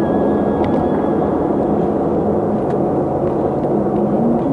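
A vehicle driving on a city road: a steady rush of engine, tyre and wind noise, with a low engine hum that shifts slightly in pitch.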